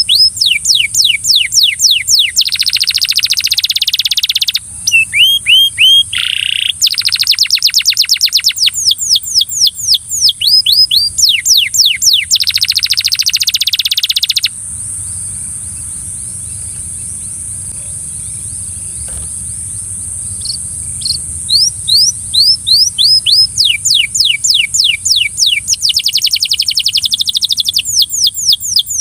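Belgian canary singing in fast rolls of repeated falling whistled notes, with buzzy trills in between. The song breaks off for about six seconds midway, then starts again with more quick rolls.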